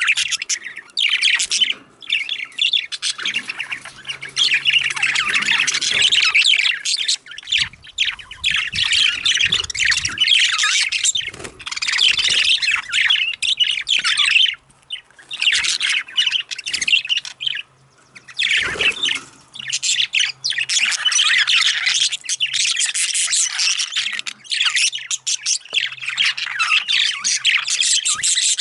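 Budgerigars chattering and squawking in rapid, warbling runs with short pauses between them. A few low knocks sound around a third of the way in, and one more a little past the middle.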